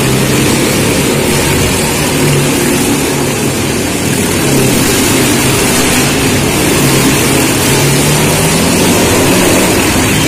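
Motorcycle engines running steadily under load, the engine note wavering slightly up and down.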